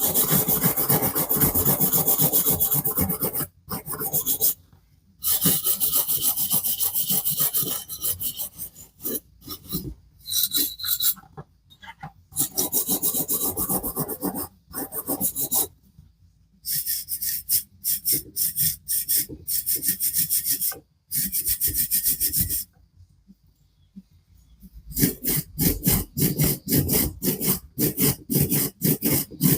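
Brass wire brush scrubbing the bare die-cast metal body of a Corgi Oldsmobile Super 88 model car, in spells of rapid back-and-forth strokes with short pauses, the strokes coming quicker near the end. The brushing cleans the furry surface off the old casting before prep.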